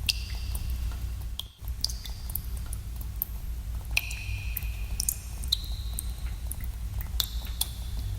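Water dripping in a cave: irregular single drops, about one a second, each a sharp plink with a short ringing note, over a steady low rumble. The sound briefly drops out about one and a half seconds in.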